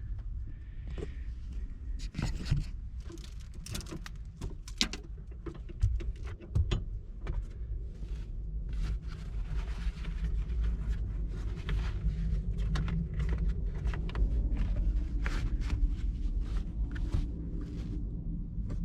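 Scattered clicks, taps and rustles of hands working with brake-line fittings and parts in a car interior, a few sharper knocks among them, over a steady low rumble.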